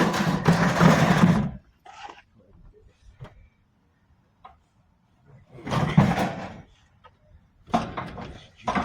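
Scrap metal being shoved and dragged into a loaded truck: a long scrape for about the first second and a half, a few light knocks, then another scrape about six seconds in and more near the end.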